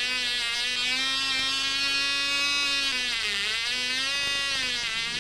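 Tiny .02 cubic inch model-aircraft two-stroke engine running flat out with a steady high-pitched buzz; its pitch sags briefly a little past halfway, then picks back up.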